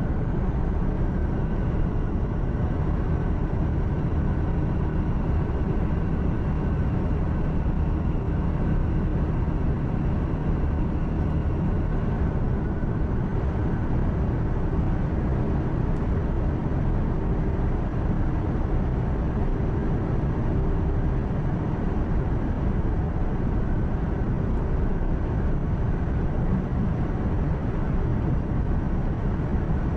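Truck engine hum and road noise inside the cab while driving: a steady low drone with a faint higher whine held over it.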